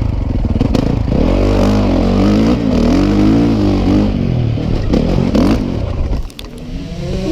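Motocross bike engine revving, its pitch rising and falling repeatedly as the throttle is worked. The sound drops away briefly about six seconds in.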